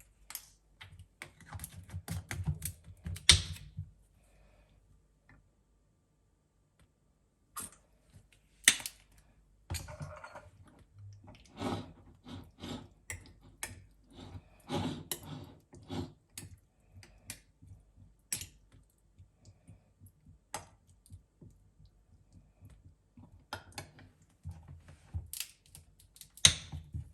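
Irregular light clicks and taps from objects being handled, coming in clusters with a few short quiet gaps.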